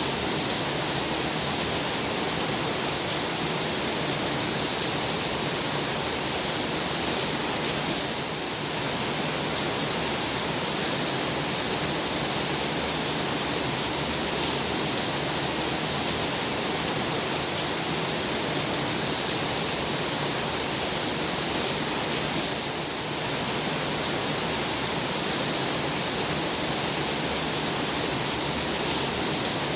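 Heavy rain falling in a steady downpour: an even hiss with no single drops standing out, easing very slightly twice for a moment.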